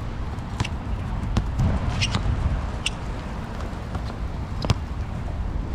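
A basketball bouncing on an outdoor court: a handful of sharp, irregularly spaced bounces over a steady low rumble.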